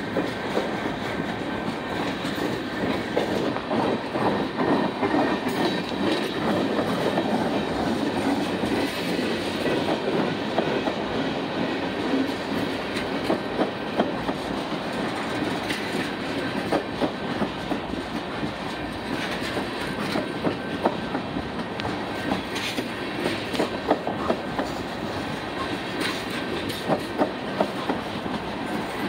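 Tank cars of a freight train rolling past close by: a steady rumble of steel wheels on rail, broken by irregular sharp clacks and knocks as the wheels cross rail joints.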